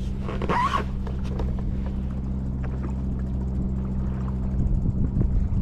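A motor running steadily with a low, even hum. A brief higher-pitched sound rises briefly about half a second in.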